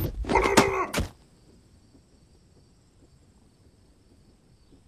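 A brief, loud burst of sound ending in a sharp thud about a second in, then near silence with a faint hiss.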